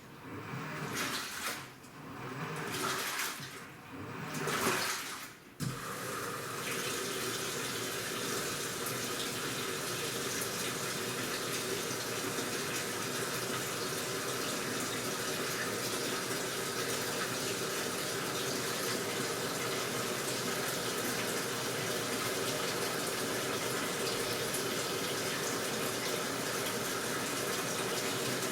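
AQUA washing machine: water swishes in surges about a second apart for the first five seconds or so, then a click and a steady rush of water pouring into the tub as it fills.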